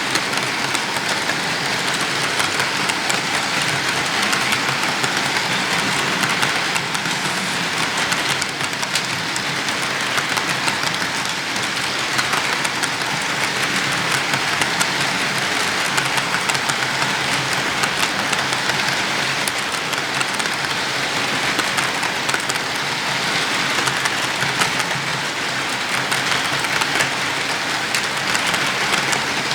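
N scale model train, an Atlas C40-8 locomotive pulling rolling stock, running on layout track: a steady, even rushing noise with fine clicks from the motor and wheels on the rails.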